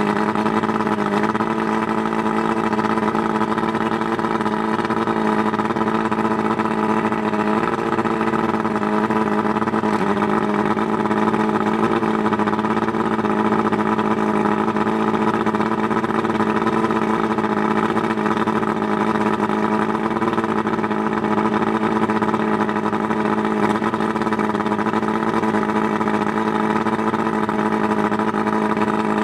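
140 hp Johnson two-stroke outboard motor running at a steady idle, with slight changes in pitch about a second in and again around seven seconds in. It is fitted with new power packs and freshly rebuilt carburetors.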